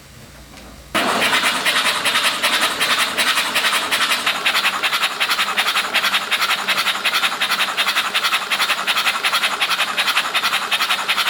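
Rapid, steady scratching that starts abruptly about a second in and keeps an even, fast stroke rhythm.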